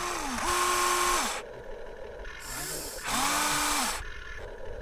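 Small electric gear motors of a Huina radio-controlled toy construction vehicle whining in short bursts, each rising in pitch as the motor spins up and falling as it stops: one burst near the start and another about three seconds in.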